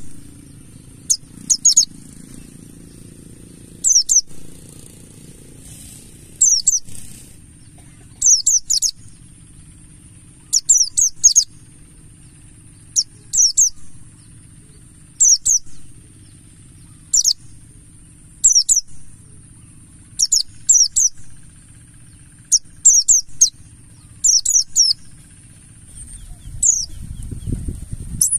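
Pleci buxtoni white-eye giving short, high-pitched chirping phrases of a few quick falling notes, repeated about every two seconds, over a steady high hiss. A louder low sound comes in near the end.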